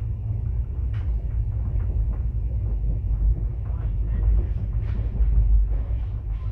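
A moving train's running rumble heard from inside the coach: a steady low rumble of wheels on track, with scattered short clicks about once a second.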